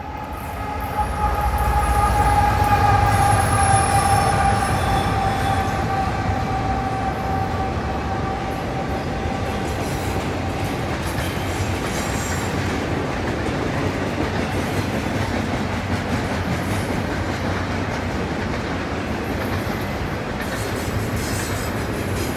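CN freight train passing: the diesel locomotive goes by with a deep engine sound and a steady whine that fades out about halfway through, followed by the even rolling rumble and clatter of double-stack container well cars on the rails.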